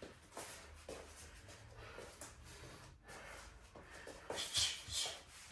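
Short, sharp breath exhales during shadowboxing, several in a row with the loudest cluster about four to five seconds in.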